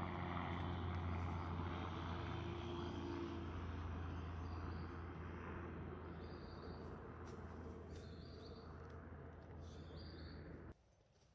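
A steady low engine drone that slowly fades away, with a few short bird chirps in the second half. It cuts off abruptly near the end.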